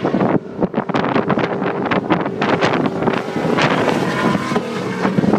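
Stock race cars' engines running as they race around the oval track, several engine notes layered, with wind buffeting the microphone.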